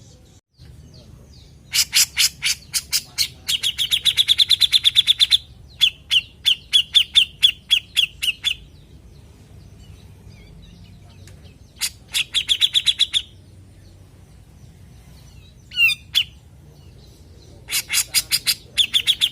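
Grey-cheeked bulbul (cucak jenggot) calling in harsh chattering bouts. Each bout is a run of sharp clicks that speeds into a rapid trill, four bouts in all, with a short single call about two-thirds of the way through.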